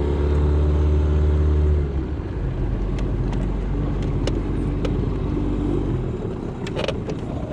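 A small boat's motor pushing the boat along: it comes up in pitch just at the start, runs loud and steady for about two seconds, then is throttled back to a lower, quieter hum.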